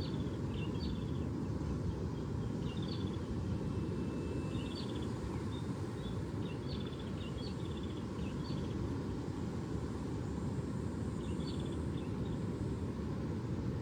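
Steady low rumble, with a small bird giving short chirping calls, singly and in quick clusters, every second or two, pausing for a few seconds before calling again near the end.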